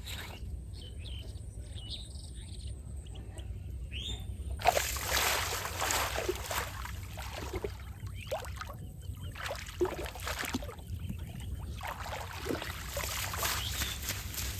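Water splashing and sloshing, starting suddenly about five seconds in and going on unevenly, with faint bird chirps before it.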